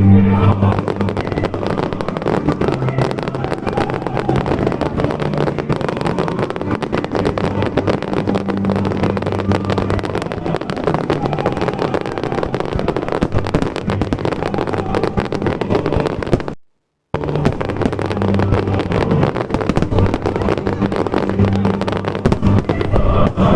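Fireworks show going off in a dense, rapid string of crackles and pops, over show music playing through loudspeakers. The sound cuts out for about half a second about two-thirds of the way through.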